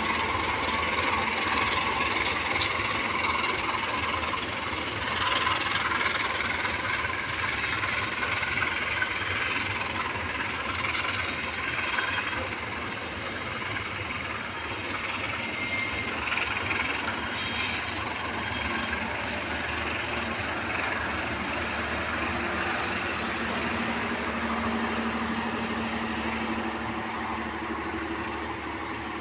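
Diesel locomotive and passenger carriages rolling slowly along the track during shunting, with steady wheel and rail noise that gradually fades.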